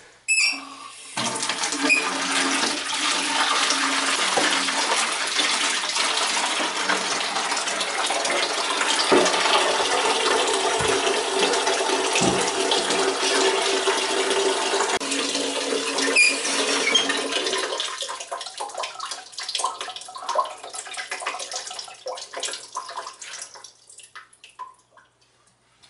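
Water running steadily from a tap into a sink or tub for a cat's bath, shutting off about eighteen seconds in. After that come irregular, softer water sounds.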